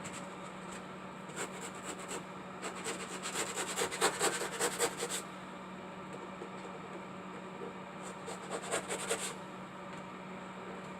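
Hand sanding with 100-grit sandpaper, short quick rubbing strokes that come in two spells: a longer, louder run a few seconds in and a shorter one near the end. A steady low hum runs underneath.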